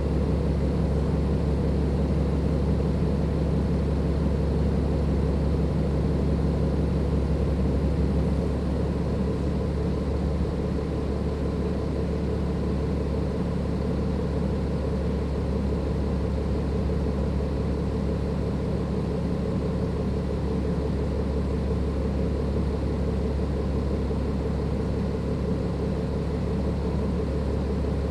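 Cummins ISLe340B diesel engine of a Dennis Enviro 500 double-decker bus running steadily, with a faint steady high tone over a deep hum; it eases slightly about nine seconds in.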